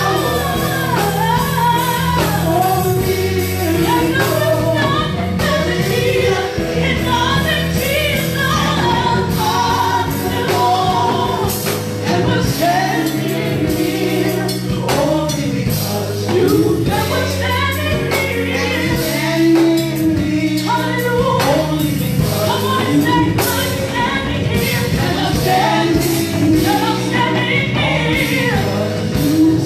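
Gospel worship music: a choir and congregation singing over instrumental accompaniment with a steady beat.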